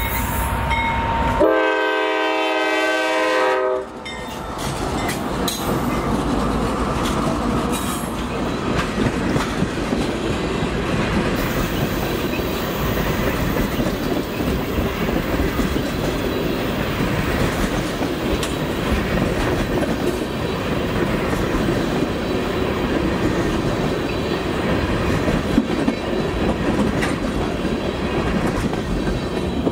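A freight train's locomotive horn sounds one chord-like blast for about two seconds and cuts off sharply about four seconds in. The locomotive then passes, and a long string of tank cars rolls by with a steady wheel rumble and the clickety-clack of wheels over the rail.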